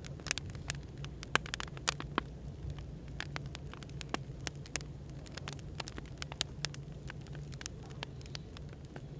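Firewood burning with irregular, sharp crackles and pops, over a steady low hum of background white noise.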